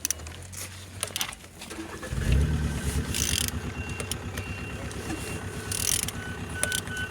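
Used VW 1.4 TDI (AMF) diesel engine being turned over. A rhythmic mechanical churning starts about two seconds in and keeps an even beat, with brief hissing bursts over it.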